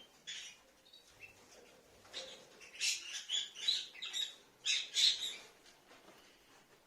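Rosy-faced lovebirds chirping: short, high calls in quick runs, busiest from about two seconds in and again around five seconds.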